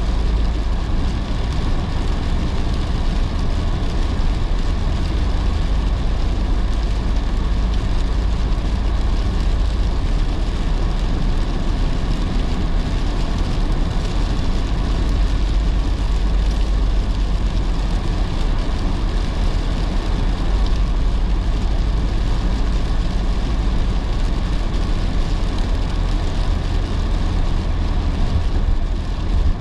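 A car driving in heavy rain: a steady deep rumble of road and tyre noise, with rain on the car and the wet road.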